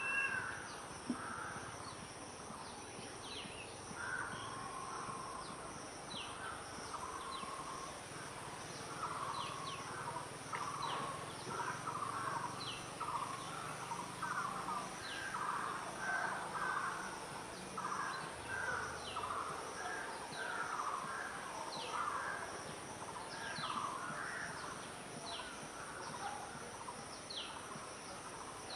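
Wild birds calling in a busy chorus: a steady chatter of short, low, rough notes, with brief high falling whistles every second or two.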